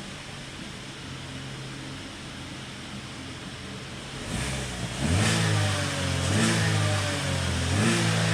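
Holden Barina engine idling steadily, then revved from about five seconds in: the revs rise and fall about three times and the engine runs louder at higher revs.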